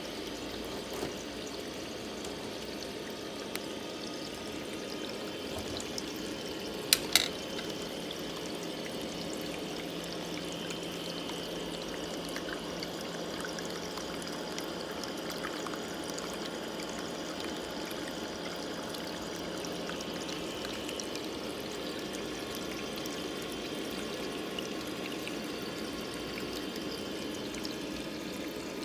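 Water from a small aquarium waterfall pouring and trickling steadily. Two sharp clicks come close together about seven seconds in.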